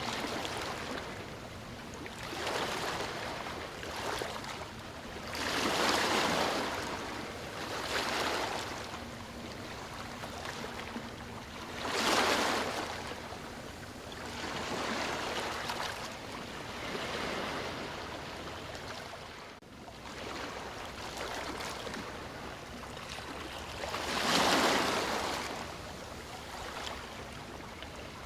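Sea waves washing onto the shore, a steady hiss that swells and ebbs every few seconds, with three stronger surges.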